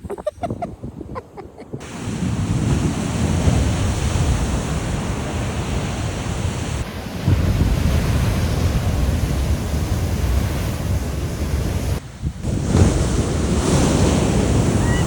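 Heavy ocean surf crashing and rushing up the beach, with wind buffeting the microphone. There are a few short knocks in the first couple of seconds.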